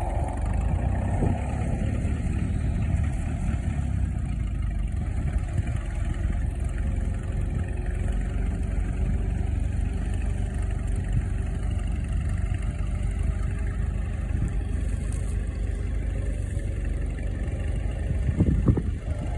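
Fordson Model N tractor's four-cylinder engine running steadily under load while pulling a plough, with a few knocks near the end.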